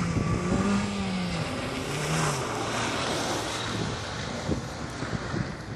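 Hyundai i30 hatchback driven hard through a gymkhana course, its engine revving up and dropping back twice between bursts of acceleration. Tyre noise can be heard as the car slides around a cone.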